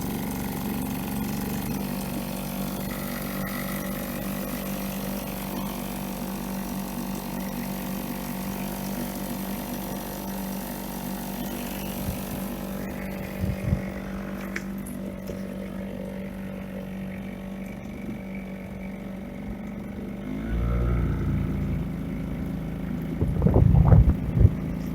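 Small boat's outboard motor running at a steady speed. About 20 seconds in its pitch dips and it grows slightly louder, with a few knocks near the end.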